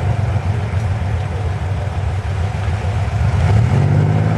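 Classic car engine running with a deep, low note that grows louder about three and a half seconds in.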